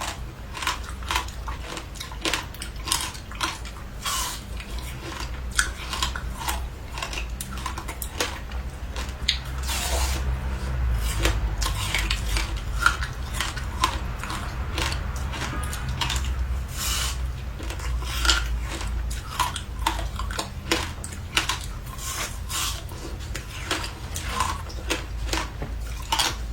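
Ice frozen with passion fruit and sesame seeds being bitten and chewed close to the microphone: a steady run of sharp, irregular crunches.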